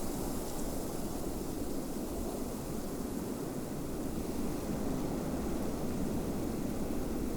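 Steady snowstorm wind: a low, even rushing rumble with no gusts or breaks.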